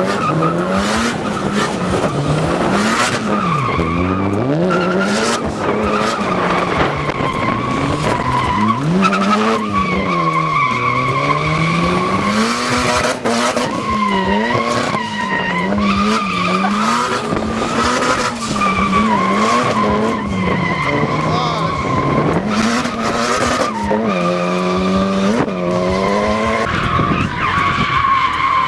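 Drift cars' engines revving up and falling back again and again with the throttle, while their tyres squeal in a steady high tone as they slide sideways.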